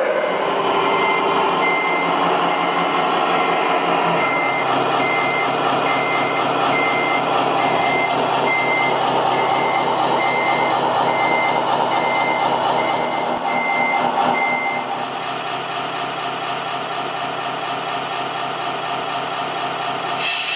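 Reversing beeper on a radio-controlled construction vehicle: a single high beep repeating evenly, about twice a second, over the steady running noise of the model's motors and gears. The beeping stops about three-quarters of the way through while the running noise continues.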